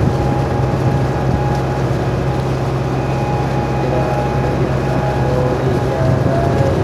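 A tour boat's engine running steadily while the boat cruises, a constant low drone.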